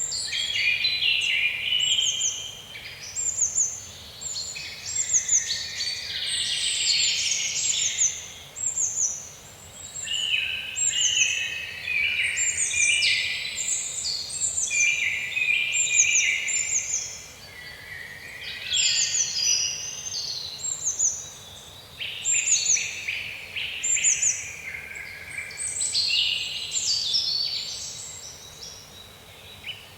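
Songbirds singing: many overlapping chirps and trills in phrases of a few seconds, with one bird repeating a short, high falling note over and over.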